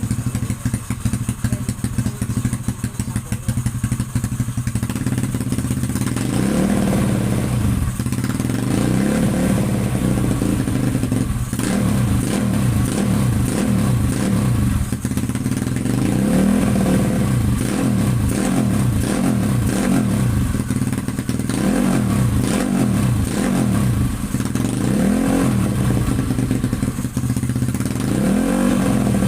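Motorcycle engine idling steadily, then revved again and again from about six seconds in, short blips that rise and fall in pitch every second or so.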